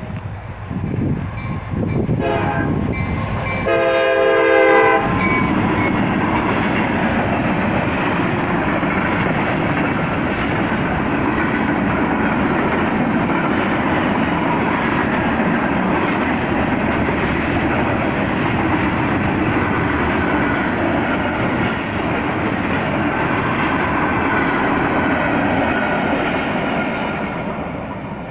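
Freight train horn sounds a blast about four seconds in, then the train rolls through the crossing close by: a steady loud rumble and rattle of the empty centerbeam flatcars and their wheels on the rails, easing off near the end as the last car clears.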